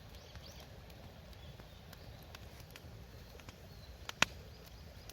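Wood fire crackling with scattered sharp pops, one much louder pop about four seconds in, over a low steady outdoor rumble, with faint bird chirps.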